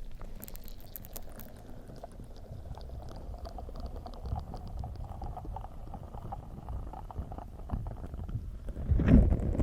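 Slime squished and pressed against a microphone: wet, sticky squelching with many small crackling pops, louder about nine seconds in.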